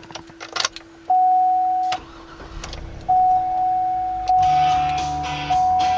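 Inside the cabin of a 2008 Hummer H2, a couple of clicks, then the dashboard warning chime dinging in long, evenly repeated tones; about four seconds in a low rumble joins as the engine starts and runs.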